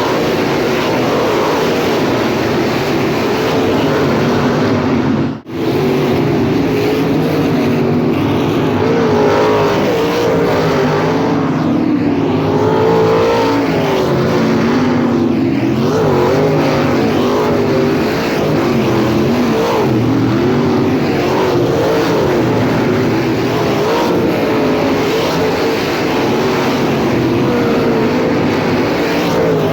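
Several sprint cars' V8 engines running together on a dirt oval, their pitches rising and falling as they go around. The sound drops out for an instant about five seconds in.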